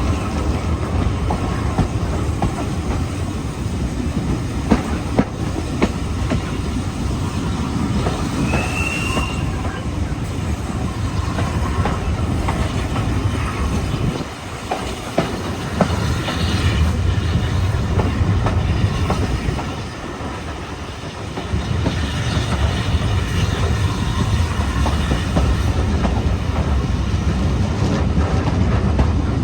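Heritage train running along the track, a steady rumble with the wheels clicking over the rail joints. There is a short wheel squeal about nine seconds in, and the rumble eases briefly twice.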